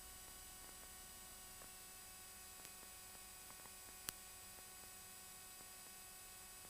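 Near silence: faint steady static hiss and hum on the aircraft radio and intercom audio line, with one short click about four seconds in.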